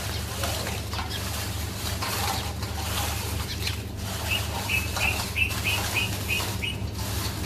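A small bird chirping in a quick series of short high chirps, about three a second, starting about halfway in, over a steady low hum.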